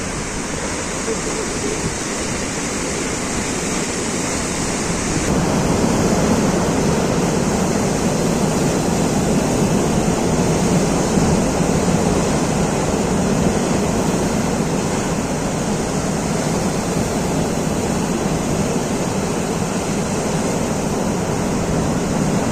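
Sea waves washing in a steady rush of surf noise. About five seconds in the sound changes abruptly to a deeper, fuller wash.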